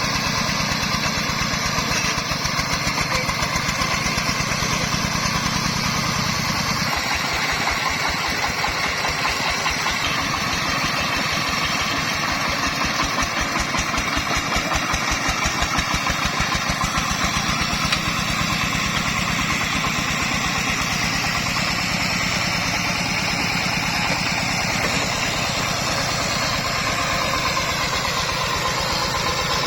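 Single-cylinder diesel engine of a công nông farm truck running steadily with an even firing beat; the beat grows more pronounced about seven seconds in.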